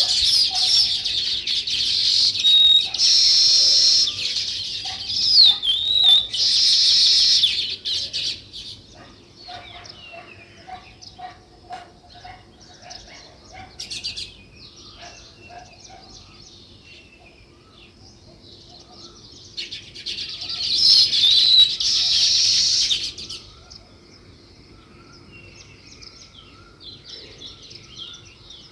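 A flock of small songbirds chirping and chattering: dense, loud chatter for the first eight seconds and again around twenty seconds in, with sparser single chirps between and after. A faint steady hum runs underneath.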